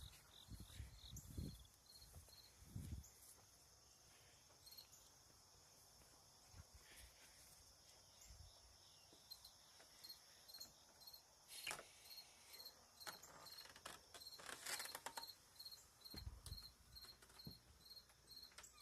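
Faint crickets chirping: one sounds a high chirp about twice a second over a continuous higher trill of other insects. A few soft thumps and clicks come through near the start and in the second half.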